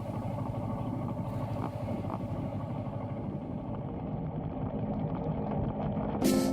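Motorcycle on the move: steady engine drone and rushing wind noise. Near the end there is a brief loud burst of hiss.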